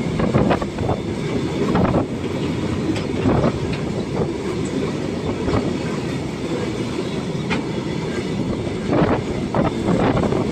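Freight train wagons rolling past close by: a steady rumble of steel wheels on the rails, with clacks at irregular intervals as the wheelsets cross rail joints.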